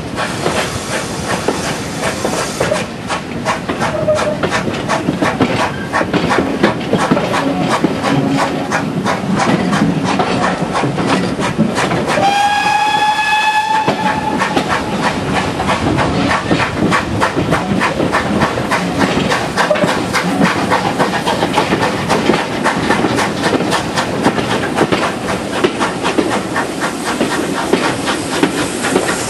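A heritage passenger train running, heard from an open carriage window: a steady rumble with quick, even clicking of the wheels over the rail joints. About twelve seconds in, a steam locomotive whistle sounds once, a single steady note about two seconds long.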